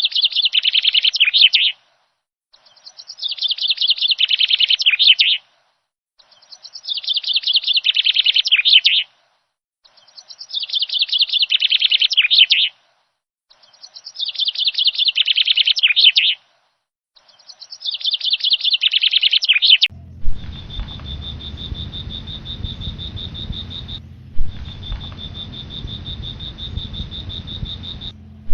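A songbird repeating the same song six times at even spacing: a rapid trill that grows louder and falls in pitch. About two-thirds of the way through it gives way to a steady, high-pitched chirring chorus over a low rumble.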